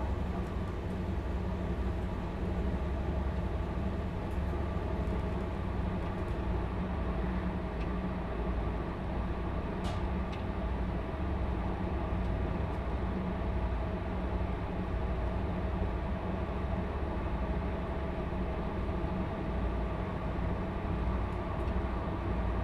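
Stadler Class 755 FLIRT bi-mode multiple unit under way on diesel, heard from inside: the steady drone of its diesel power-pack engines over a low running rumble from the wheels and track. A faint tick about halfway through.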